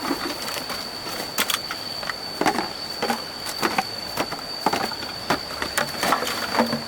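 Irregular knocks and clatters, roughly one or two a second, over a steady high-pitched whine.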